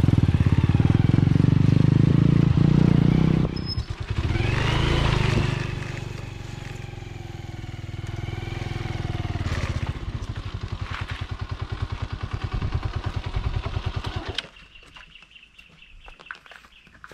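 Small Honda motorcycle engine running on a rough dirt track: loud at first, revving up with a rising pitch, then settling into a steady putter. It cuts off suddenly about three quarters of the way through, leaving only a few light clicks.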